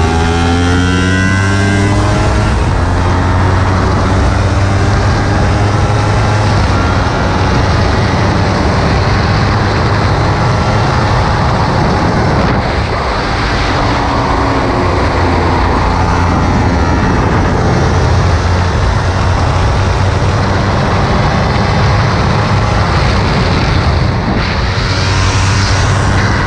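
Kawasaki Ninja 300's parallel-twin engine running hard at speed, the pitch sweeping up as it revs through the gears near the start and again around halfway, with a short dip in level in between.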